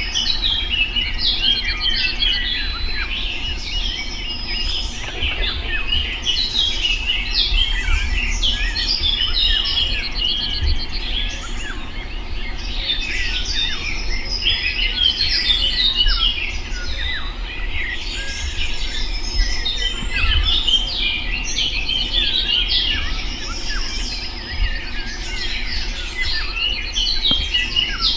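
Dense chorus of songbirds singing, many rapid chirps and trills overlapping without pause, over a low steady rumble.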